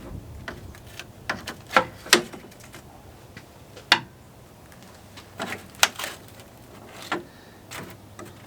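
Irregular sharp knocks and clicks, about eight of them at uneven intervals, like objects being handled and set down.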